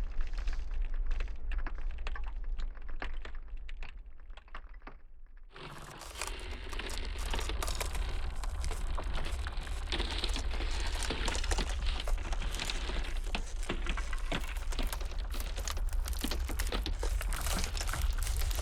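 Ice cracking and crackling in dense, irregular snaps over a steady low wind rumble. The crackle thins out and drops away for a few seconds, then comes back in full about six seconds in.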